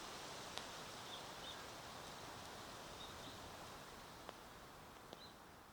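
Campfire crackling softly: a steady low hiss with a few sharp pops spread through it, and faint short high chirps now and then. The whole sound slowly fades down.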